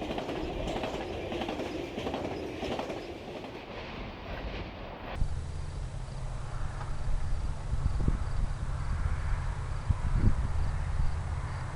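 Train sounds: rolling wheels with a fine clickety-clack for about five seconds, then after an abrupt cut a steady low rumble with a couple of light knocks.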